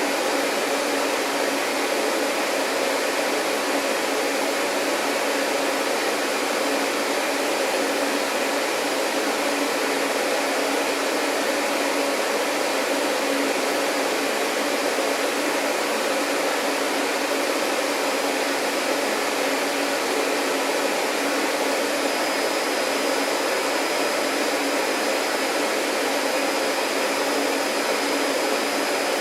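Vacuum cleaner running steadily: an even rushing noise with a faint motor hum underneath. A faint high whine joins about three-quarters of the way in.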